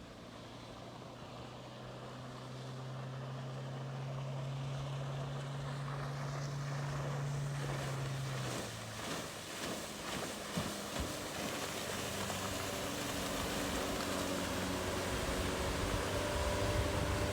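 A motor running with wind noise: a steady low drone that climbs slightly in pitch for about eight seconds, then gives way to a louder rushing sound with a few knocks and higher steady tones.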